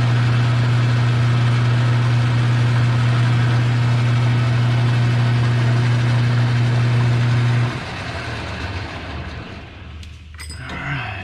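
Metal lathe's electric motor running with a steady hum, switched off about three-quarters of the way through and winding down. A brief, shifting sound follows near the end.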